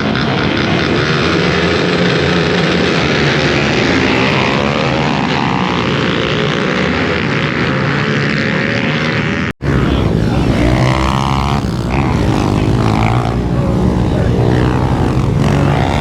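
Several dirt bike engines revving and running hard together, their pitch rising and falling as the bikes accelerate and shift. The sound cuts out abruptly for a moment about two-thirds of the way through, then resumes.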